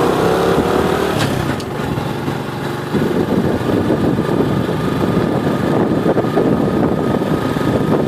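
Small motorcycle engine revving up in pitch as it pulls away, then running steadily under way. About three seconds in, the sound turns rougher and noisier.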